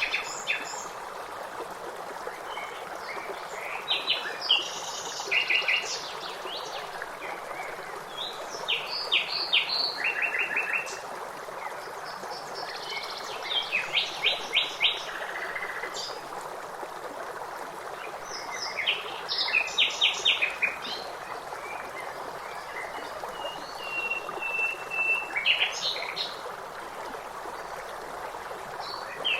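Songbirds singing over the steady rush of a stream. A bird phrase comes about every five seconds, each a quick run of repeated high notes, with one longer held whistle near the end.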